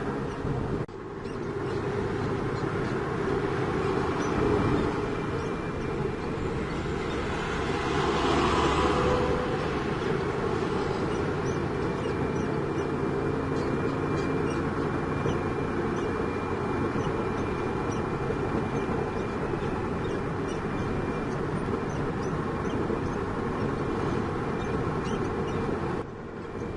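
Heavy diesel engine running steadily, with a brief surge of hissing noise about eight seconds in.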